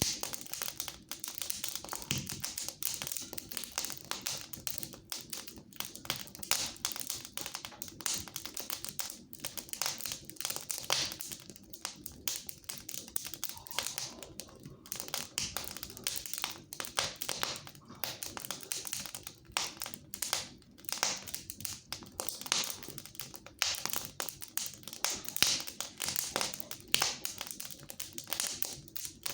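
Fire in a fireplace crackling, a dense, irregular run of small snaps and pops.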